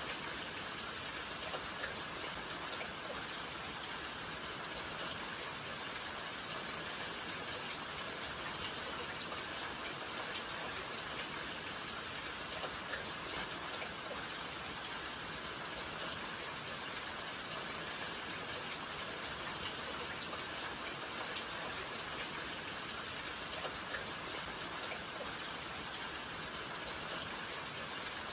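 Steady rain falling, an even patter of drops with small individual drop ticks, unbroken and level throughout.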